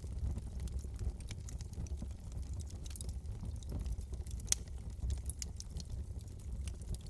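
Wood fire burning in a fireplace, with a low steady rumble of flame and irregular small crackles and pops, one sharper crack about four and a half seconds in.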